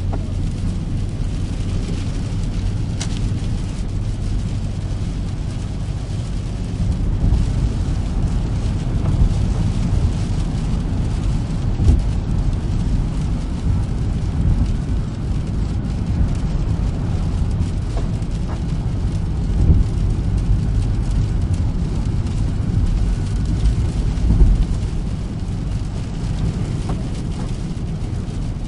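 A car driving in the rain: a steady low engine and road rumble under the hiss of rain and wet tyres. The even engine hum gives way to a rougher, louder rumble about seven seconds in, with a few brief louder bumps.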